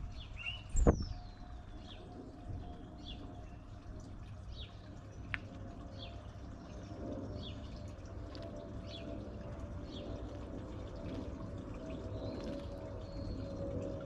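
Small birds chirping, short high calls repeated about once a second, some sweeping downward, over a low steady background hum. A sharp thump about a second in is the loudest sound.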